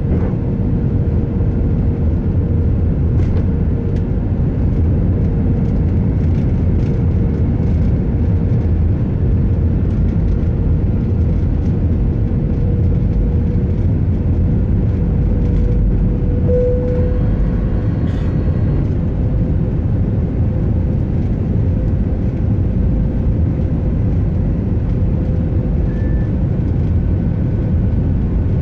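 Airliner cabin noise in flight: a steady rush of engine and airflow, with a steady mid-pitched hum over it and a few faint ticks.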